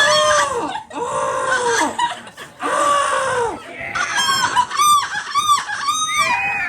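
A person imitating seagull calls with their voice: three long, arching screeches, then a quick run of four shorter, higher yelps.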